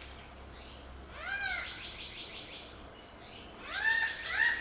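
Calls of a forest animal: a single arched, ringing call about a second in, then from about four seconds in a rapid run of loud arched notes, about four a second.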